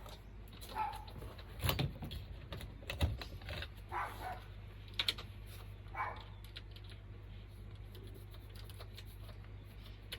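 Scattered light clicks and taps, several in the first half and fewer later, over a faint steady low hum, with a few brief high squeaks.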